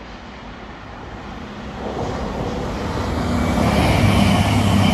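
Four-car CrossCountry Voyager diesel multiple unit approaching and passing close by: its diesel engines and wheels on the rails grow steadily louder, loudest about four seconds in, a low hum and a higher whine over the rush of the train.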